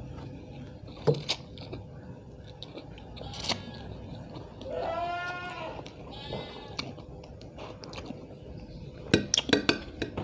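One long, wavering bleat from an animal about five seconds in. Sharp clinks of utensils against a bowl come a few times, with a quick run of clinks near the end.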